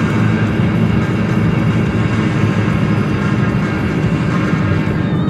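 Steady low rumble of a car driving, heard from inside, with music playing over it.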